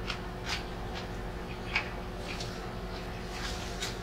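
Close-miked chewing of crisp cucumber: a scattered run of soft crunches and wet mouth clicks, about six in four seconds, over a low steady hum.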